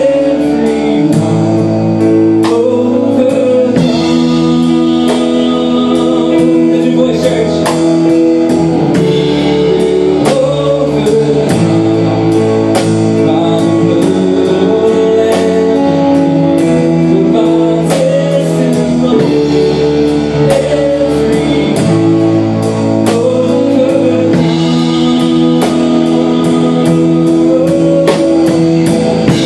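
Worship band music: guitars and held chords over a drum kit keeping a steady beat, with some singing.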